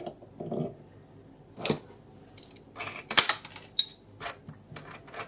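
Small steel lathe parts, the tool post and its new shaft, being handled and set against each other: a few sharp metallic clicks and clinks, the loudest a little past the middle, one leaving a short high ring.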